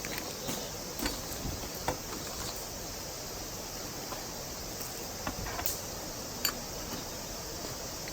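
Steady outdoor background hiss with a few scattered light clicks and taps.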